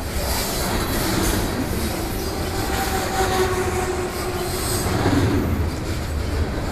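Freight train cars rolling past close by, a steady rumble of steel wheels on the rails, with a thin squeal from the wheels held for a couple of seconds in the middle.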